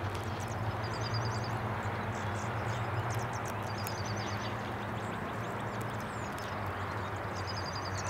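Small songbirds chirping, one giving a short rapid trill that repeats three times, over a steady low hum and hiss.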